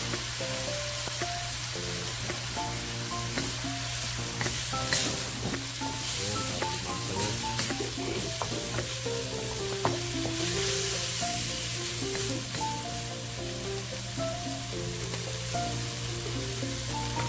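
Chopped milkfish sisig frying with a steady sizzle in a carbon-steel wok, soy sauce freshly added, as it is stirred with a wooden spatula. The spatula clicks sharply against the wok about five seconds in and again near ten seconds. Soft background music plays underneath.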